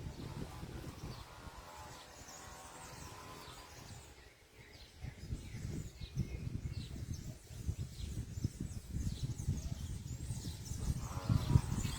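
Small birds chirping in short, scattered high calls, over a steady low rumbling background noise.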